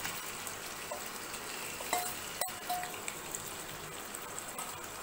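Prawns sliding into hot groundnut oil and sizzling steadily in a nonstick frying pan, with a few brief scrapes of a metal spoon against the steel bowl.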